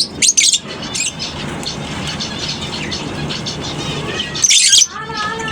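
A colony of lovebirds chattering with a constant run of quick high chirps, with louder shrill screeches just after the start and again about four and a half seconds in.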